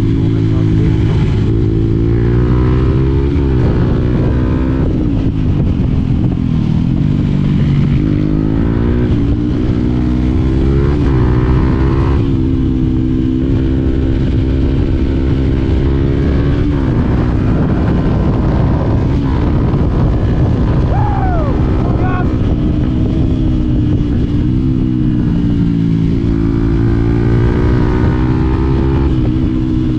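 Yamaha WR125X's single-cylinder four-stroke engine under way, its pitch climbing as it revs up and dropping sharply at each gear change, several times over.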